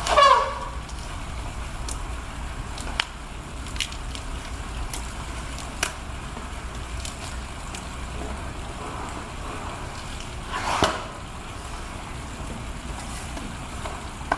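Elephant calls: a loud trumpet falling in pitch right at the start, and another short call about eleven seconds in. Between them, a steady low background rumble and a few sharp clicks.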